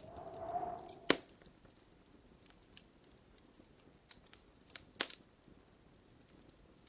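Wood fire crackling in a fireplace, with two sharp loud pops, about one second in and about five seconds in, and faint small crackles between. Just before the first pop comes a short hiss with a steady whistling tone.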